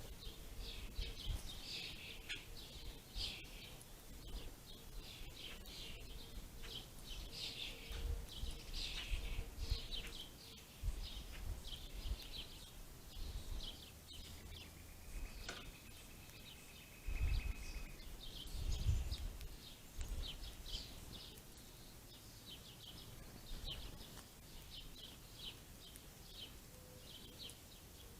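A flock of small songbirds (house sparrows, house finches and pine siskins) chirping steadily, with one long drawn-out note about halfway through. Low rumbling comes and goes a couple of times underneath.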